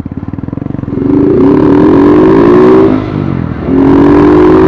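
Motorcycle engine accelerating hard, its pitch rising through one gear, dropping at a shift about three seconds in, then rising again in the next gear.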